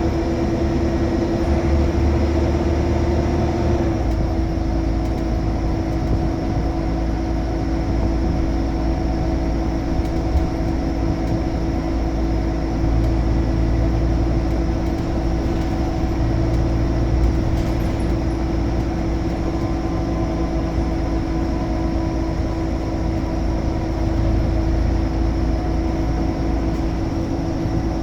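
Scania L94UB Omnicity bus's nine-litre five-cylinder diesel running, a steady low drone with a constant hum over it.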